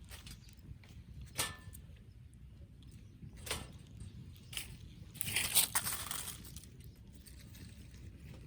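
Wood fire crackling, with a few sharp single pops a second or two apart and a louder patch of crackling and rustling about five seconds in.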